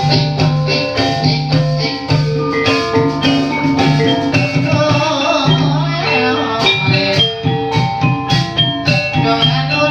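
Javanese gamelan music: tuned struck percussion playing a melody over a steady drum pattern.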